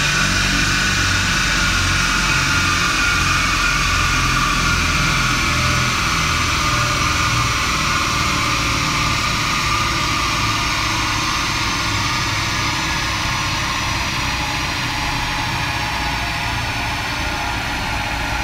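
Saab 9-5 2.0T turbocharged four-cylinder engine idling on a dyno, with a high whine that slowly falls in pitch throughout.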